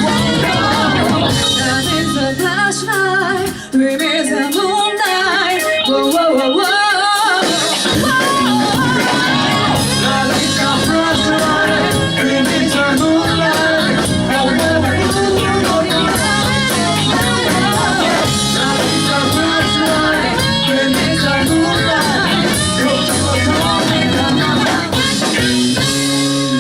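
A live band plays a pop-rock song with a lead singer. From about three to seven seconds in, the bass and drums drop away under the voice, then the full band comes back in. The song ends near the end.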